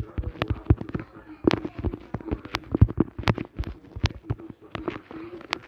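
Rapid, irregular series of sharp cracks and bangs, several a second, over a steady low hum.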